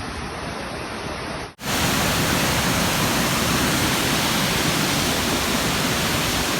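Waterfall's rushing water, a steady dense hiss. About a second and a half in it drops out for an instant and comes back louder and fuller.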